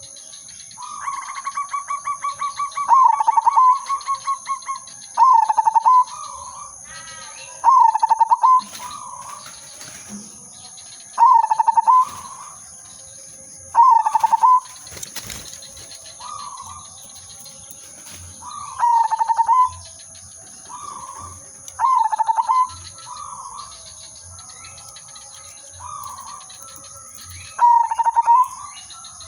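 Zebra dove (perkutut) cooing: a long stuttering trill near the start, then a loud short cooing phrase every two to three seconds, with fainter cooing phrases in between.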